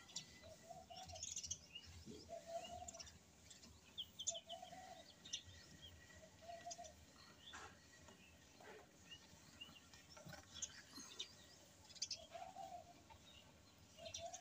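Faint birds chirping and tweeting, with a short lower call repeated every couple of seconds.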